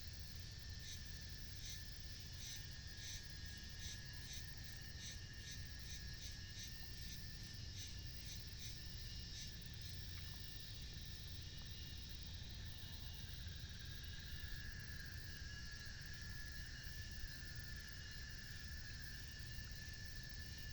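Insects chirping: a rhythmic high chirp about twice a second that stops about halfway through, over a steady high trill. A low rumble runs underneath.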